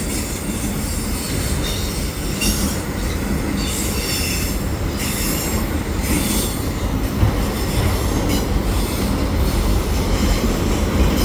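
Freight cars, mostly auto racks, rolling through a tight curve: a steady rumble of wheels on rail, with intermittent high-pitched flange squeal from the wheels grinding against the curved rail.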